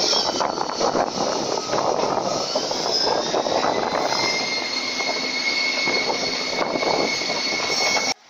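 Passenger train running on the rails, heard from inside the carriage: a loud, steady rattle and rumble full of small clicks, with a thin, steady high whine held over it. The sound cuts off suddenly near the end.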